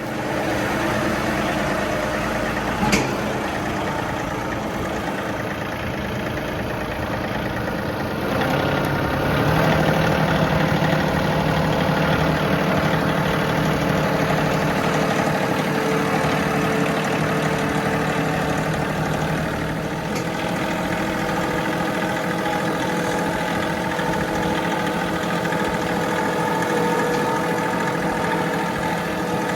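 John Deere 3038E compact tractor's three-cylinder diesel engine running steadily, with a sharp click about three seconds in; it gets louder about eight seconds in and keeps running.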